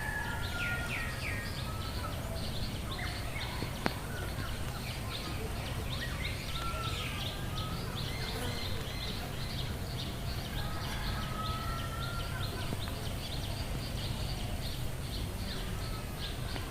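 Rural outdoor ambience: birds calling, with a dense run of short high chirps and several gliding whistled calls, over a steady low rumble. A single sharp click about four seconds in.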